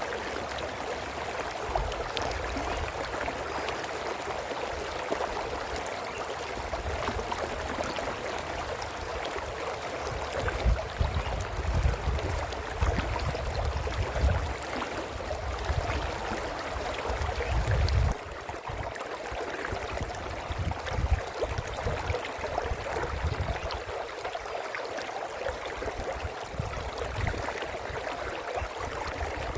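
A brook babbling and flowing steadily over stones. Under it a low, uneven rumble comes and goes and stops suddenly about eighteen seconds in.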